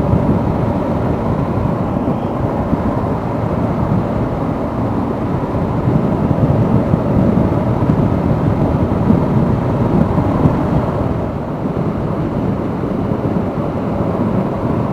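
Steady wind rush and road noise on a motorcycle rider's microphone while riding at speed, a dense low rumble with no breaks.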